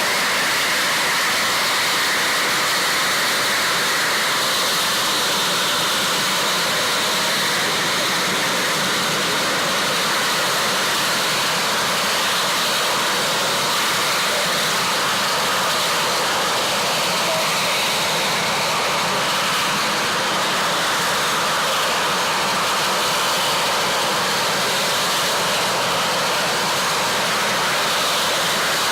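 Helicopter turbine engine and rotors running, a loud steady whine and rush that holds even throughout.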